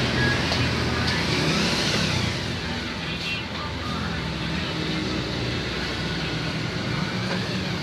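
Bajaj Pulsar AS 150 single-cylinder motorcycle engine running after its rebuild, with one rise and fall in pitch about two seconds in.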